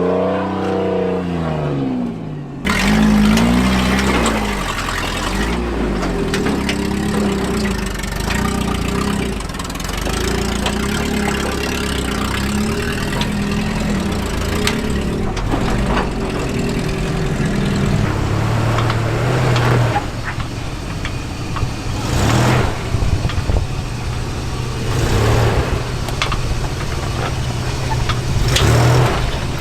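Off-road truck engine running and revving under load, its pitch rising and falling. There is an abrupt change about two and a half seconds in, and several louder rev swells near the end.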